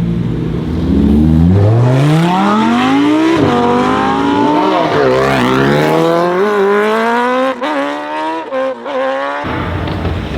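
Modified car's engine accelerating hard away, its pitch climbing through the gears with two quick upshifts and a few sharp cracks from the exhaust late on. The sound cuts off suddenly near the end.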